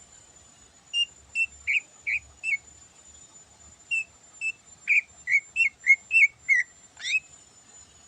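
Greater green leafbird (cucak ijo) singing: two runs of short, clear whistled notes, five in the first and about nine in the second, ending in one quick rising whistle.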